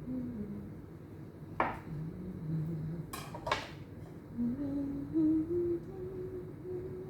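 A person humming a slow tune, with three sharp clinks of kitchenware: one about a second and a half in, then two close together about three seconds in.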